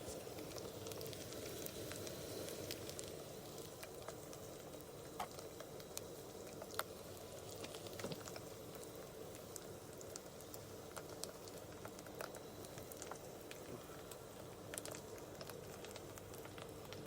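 Ginger-garlic masala frying in a pan: a faint, steady sizzle with scattered crackles and pops.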